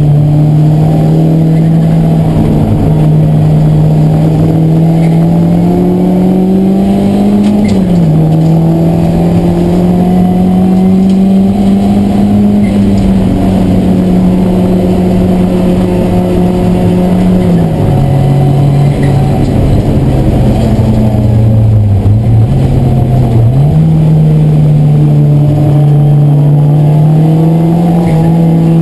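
Race car engine running hard, heard from inside the cabin. Its note climbs slowly, drops sharply about eight seconds in and again around eighteen seconds, sinks lower, then jumps back up around twenty-three seconds, as with gear changes and throttle through corners.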